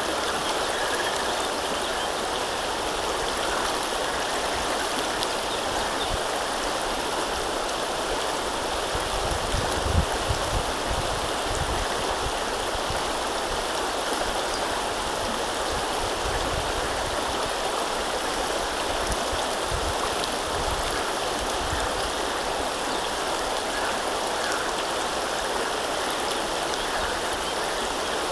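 River water flowing in a steady, even rush. A few low thuds about a third of the way in, and some low rumble later.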